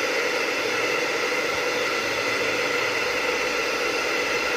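Hot-air blower running steadily, a constant blowing hiss, used to heat and soften the glue holding a speaker's dust cap.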